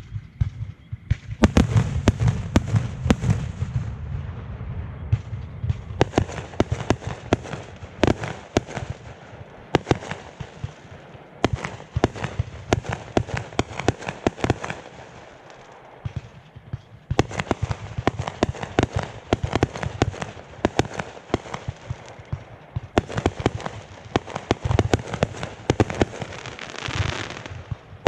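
Fireworks going off in a rapid barrage: many sharp bangs and crackles overlapping, with heavy low booms in the first few seconds. There is a brief lull about halfway through, then the bangs come dense again.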